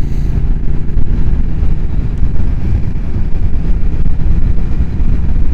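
Motorcycle under way: the engine running steadily beneath a heavy, low wind rumble on the rider's microphone.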